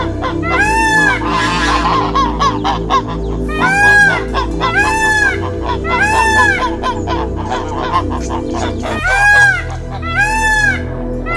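A bird giving a short, arched honking call over and over, about once a second, with a brief burst of rapid chatter about two seconds in. Soft background music with steady held notes runs underneath.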